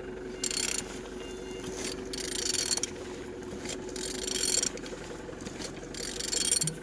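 Hyundai G4EE 1.4-litre petrol engine being turned over by hand, with four short scraping, rushing bursts about every two seconds as the crankshaft is rotated; it turns freely. A faint steady hum runs underneath.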